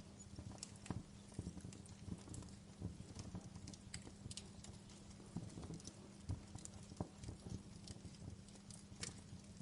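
Fire crackling: irregular small pops and snaps, a few sharper ones, over a low steady rumble.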